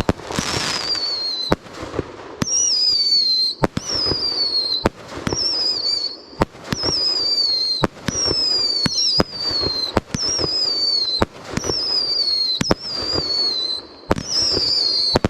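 Fireworks going off in quick succession: a string of high whistles, each falling in pitch over about a second, mixed with sharp bangs coming roughly once or twice a second.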